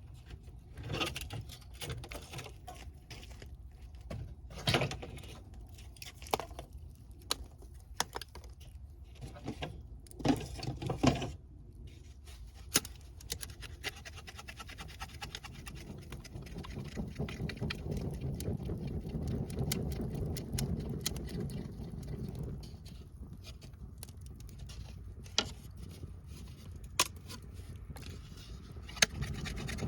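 Wood fire crackling, with scattered sharp pops and some rustling of wood in the first part; a low rumble swells in the middle.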